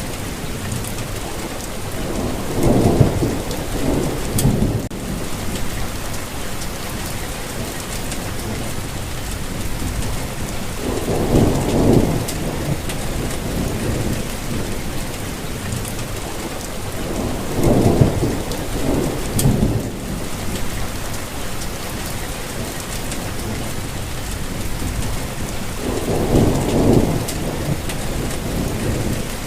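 Steady rain falling, with four low rumbles of thunder that swell and fade, spaced several seconds apart.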